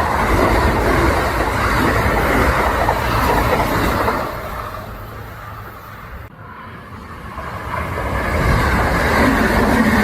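Kintetsu electric train running past on the track, its loud rumble dying away about four seconds in. After a short lull the noise builds again near the end as the next train approaches.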